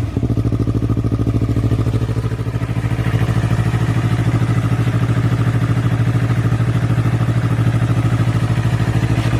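Yamaha MT-03's parallel-twin engine idling steadily through an Akrapovic full exhaust system, an even pulsing note.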